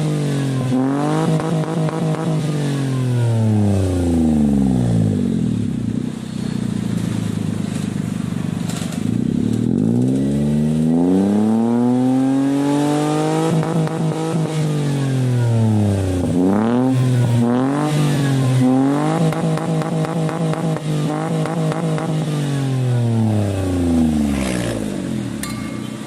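Toyota Agya's engine revved through an aftermarket Remus branched dual-outlet exhaust: a few quick blips, then several long climbs in revs that fall back to idle, with a cluster of short sharp blips about two-thirds of the way in.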